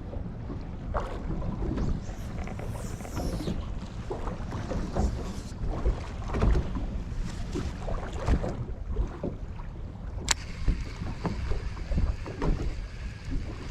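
Wind buffeting the microphone and water slapping against the hull of a small fishing boat, with scattered knocks and one sharp click about ten seconds in.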